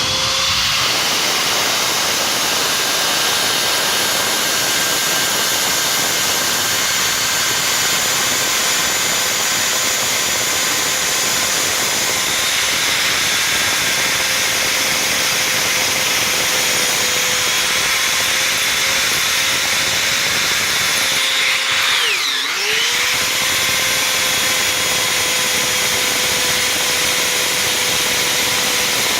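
Electric drill driving a carbide-tipped tile and glass bit dry into hard porcelain, with no water or coolant: a steady whine over a grinding noise. About three quarters of the way through, the pitch dips briefly as the bit bogs down, then recovers.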